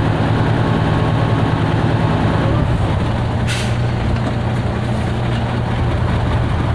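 Heavy engine running steadily, its pitch shifting about two and a half seconds in, with a short hiss about a second later.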